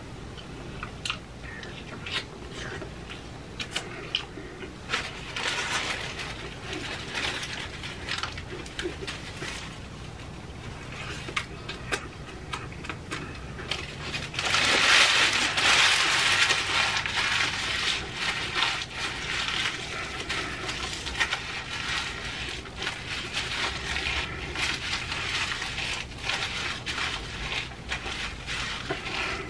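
Close-up eating sounds: chewing and small wet mouth clicks while eating a wrap sandwich, with paper sandwich wrapper crinkling, loudest for a few seconds about halfway through.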